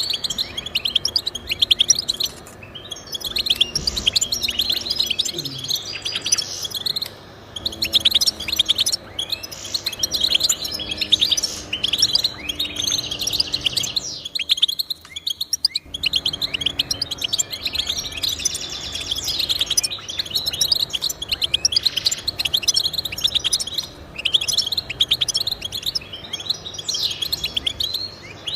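Goldfinch song: fast, continuous twittering and trilling. The song breaks off briefly about halfway through, then resumes.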